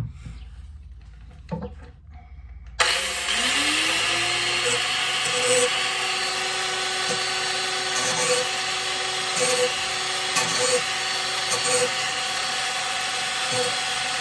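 A large electric angle grinder is handled with a couple of knocks, then switched on about three seconds in. It spins up with a rising whine and runs steadily, with short bursts about once a second as the disc is touched lightly to the lawn mower blade's edge to sharpen it.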